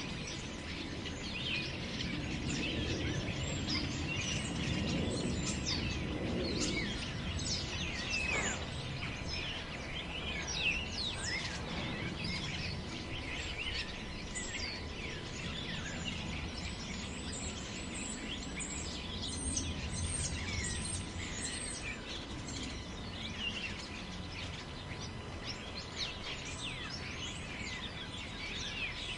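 Wind in a forest, a low rush that swells in the first seven seconds or so, with many birds chirping and calling throughout.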